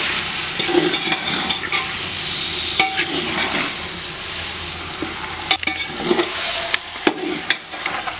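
Raw chicken pieces sizzling in hot onion-tomato masala in a large metal pot as they are stirred with a perforated metal skimmer ladle, which scrapes and knocks against the pot now and then.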